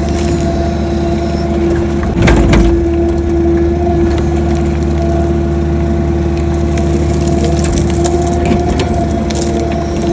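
Excavator running steadily under load, its engine humming with a steady hydraulic whine over it. About two seconds in, a loud crunch of the bucket working the ground, with lighter scraping and knocks after.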